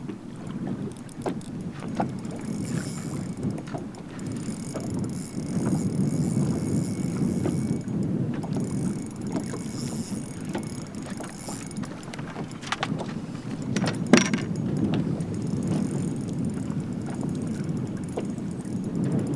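Wind buffeting the microphone and water noise around a bass boat, with a thin high whir from about two and a half to twelve seconds in. There are a few sharp knocks, the loudest about fourteen seconds in.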